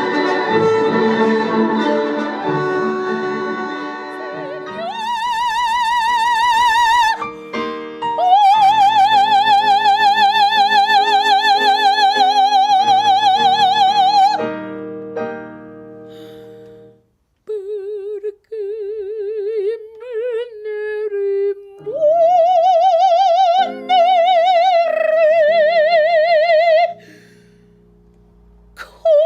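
Operatic soprano singing an aria with piano accompaniment: long held high notes with a wide, even vibrato, in a few separate phrases with short pauses between them. In the first few seconds, instrumental music with strings plays before the voice comes in.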